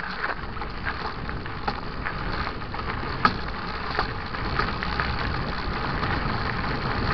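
Mountain bike riding on a dirt trail: steady tyre rumble and wind on the microphone, with scattered sharp clicks and rattles from the bike over rough ground.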